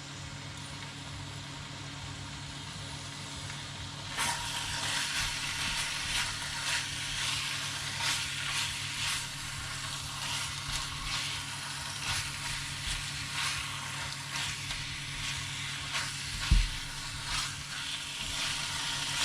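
Chicken and spice paste sizzling in a pan. From about four seconds in, a utensil scrapes and clicks against the pan as it is stirred, with one soft thump near the end.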